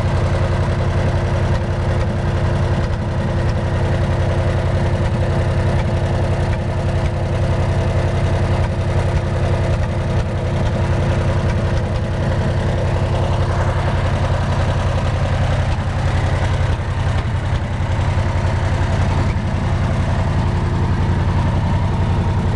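The Wisconsin VF4 air-cooled V4 engine of a 1947 Lincoln pipeliner welder running steadily, with a steady hum in it that fades out about halfway through.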